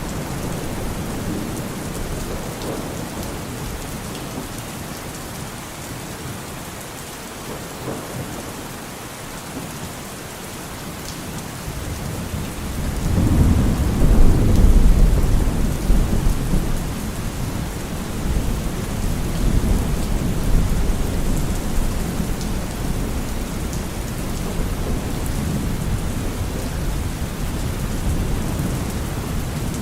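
Steady rain with a long roll of thunder that swells about twelve seconds in, peaks a couple of seconds later and keeps rumbling as it slowly fades.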